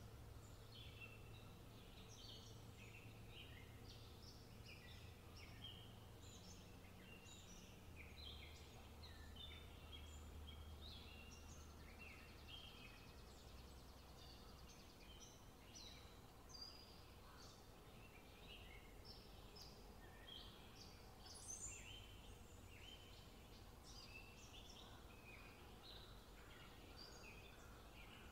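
Faint birdsong from several birds in the trees, a steady run of short chirps and trills, over a low steady rumble.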